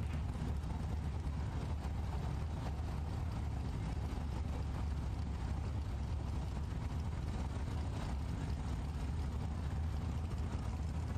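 Drag race cars' engines idling at the starting line, a steady low rumble with no revving.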